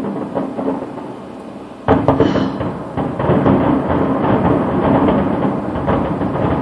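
Aerial fireworks bursting at a distance: a sharp bang about two seconds in, then a dense run of booms that roll together into a steady rumble.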